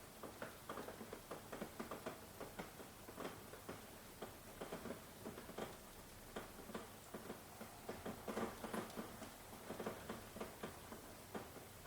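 Rain dripping: irregular single drops tapping a surface several times a second over a faint hiss.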